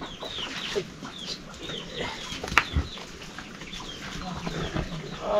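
Small birds chirping: short, high, falling chirps repeating several times a second, with one sharp knock about two and a half seconds in.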